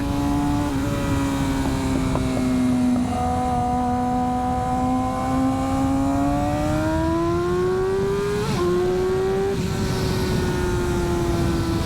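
Motorcycle engine running hard with wind rush on the microphone, its pitch climbing gradually as the bike accelerates, a short break for a gear change about eight and a half seconds in, then the pitch easing slowly down.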